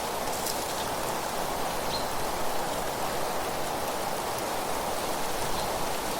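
Steady rustling of wind through leaves, even and unbroken, with a few faint short high ticks or chirps.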